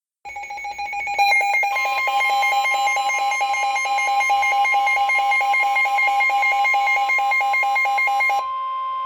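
Weather radio warning alert tones: a harsh electronic beeping that pulses several times a second, joined about a second and a half in by a steady continuous tone, the warning alarm tone. The beeping stops near the end while the steady tone carries on.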